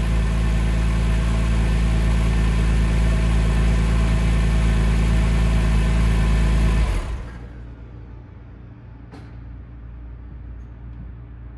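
2003 Porsche 911 Carrera Cabriolet's flat-six engine idling steadily on a cold start, then shut off about seven seconds in, its note cutting out suddenly. A faint click follows a couple of seconds later.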